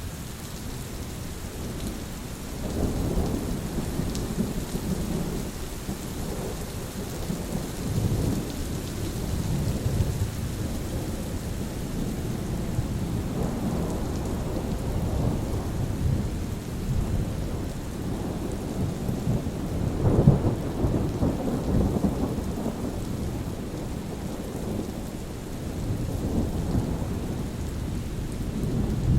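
Steady rain with rolling thunder: the low rumble swells and fades several times, loudest about two-thirds of the way through, over a constant hiss of rainfall.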